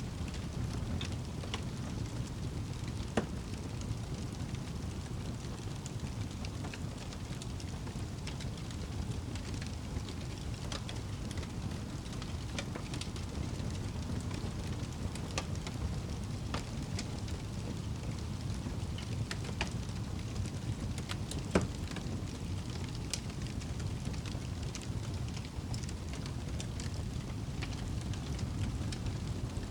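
Wood fire burning in a fireplace: a steady low rumble of flames with scattered sharp crackles and pops, two louder pops about 3 and 21 seconds in.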